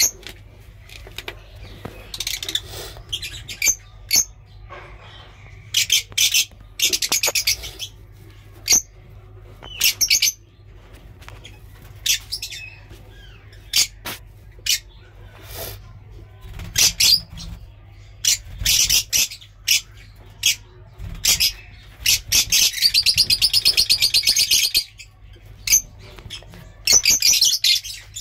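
Lovebirds chattering: bursts of shrill, rapid chirping calls, one after another, with a longer unbroken run of fast, rattling calls about three quarters of the way through.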